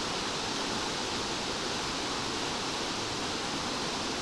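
Waterfall's steady rush of falling water, an even hiss with no change.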